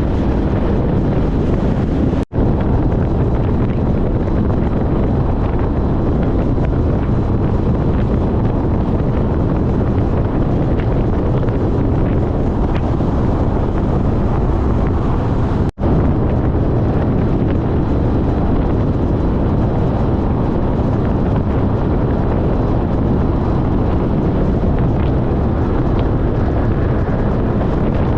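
Steady wind buffeting on the microphone of a motorcycle riding at speed, with road and engine noise underneath. The sound drops out for an instant twice.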